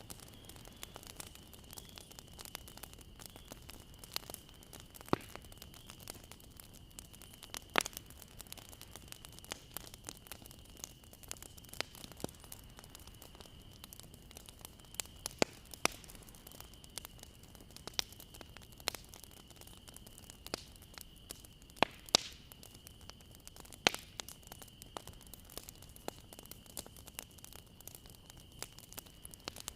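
Bonfire crackling: irregular sharp pops and snaps over a low hiss, a few of them much louder than the rest, with a faint steady high-pitched tone underneath.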